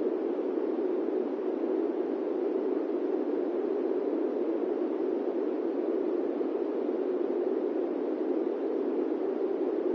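Steady airplane-cabin white noise: an even, unbroken rush centred in the low-mid range, with no changes.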